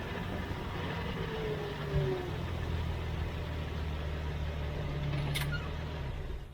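Jeep Cherokee XJ driving, its engine and drivetrain making a steady low hum, with a dull thump about two seconds in and a single sharp click near the end.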